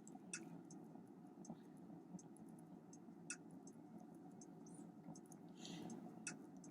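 Near silence: faint room tone with scattered soft, irregular clicks, a few slightly sharper, and a brief soft rustle near the end.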